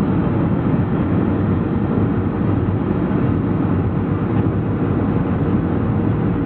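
Steady cabin noise of a Boeing 737-400 in flight: the low drone of its CFM56 jet engines and the rush of air over the fuselage, with a faint steady hum.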